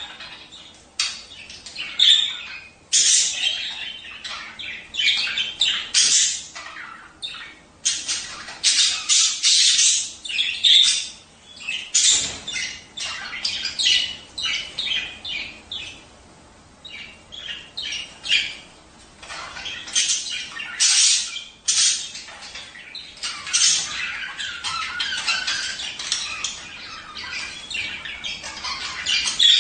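Budgerigars chattering and squawking, a dense run of quick, high calls that barely pauses: budgie breeding chatter.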